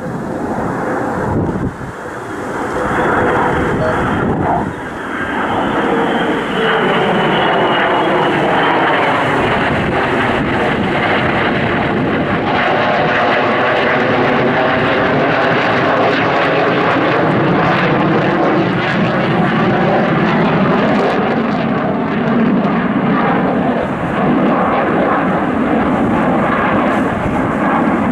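Lockheed Martin F-35A Lightning II's single Pratt & Whitney F135 turbofan, a loud steady jet roar as the fighter flies past. A high whine falls in pitch over the first several seconds, and the roar takes on a swirling, phasing tone as the aircraft passes.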